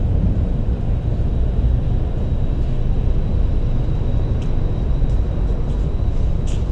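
Línea Sarmiento electric multiple-unit passenger train rolling slowly along the platform: a steady low rumble, with a faint high steady whine joining about a third of the way in.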